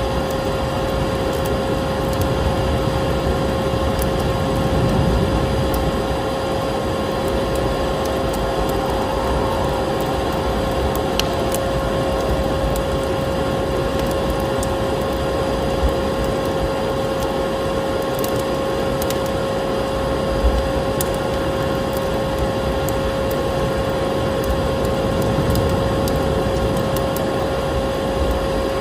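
Vacuum cleaner running steadily, a constant hum with a held tone, mixed with a wood fire crackling in a fireplace, its pops scattered irregularly through the noise.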